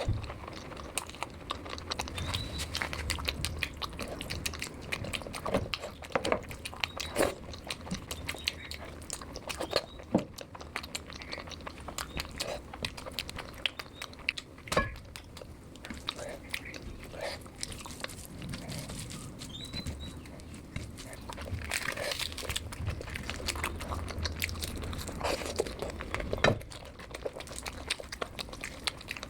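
A person eating: chewing and wet lip smacking with many small quick clicks, from a meal of curry with puri and rice.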